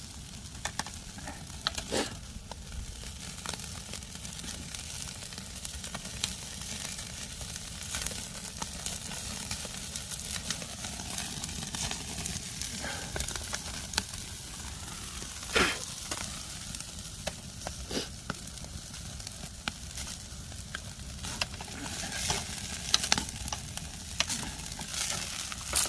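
Half-dried sea bass grilling over a wood fire, its dripping fat sizzling steadily, with scattered sharp pops; the loudest pops come about two seconds in and about halfway through.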